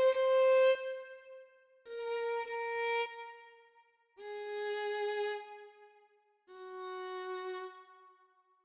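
MIDI-rendered violin playing a slow phrase of long held notes, each a step lower than the one before, with short breaks between them.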